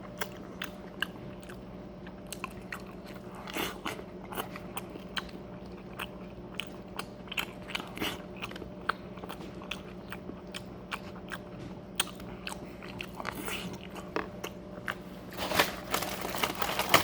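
Close-up chewing and biting: many small wet mouth clicks and crunches as a taco is eaten, over a steady low hum. Near the end a denser, louder stretch of crunching or handling noise.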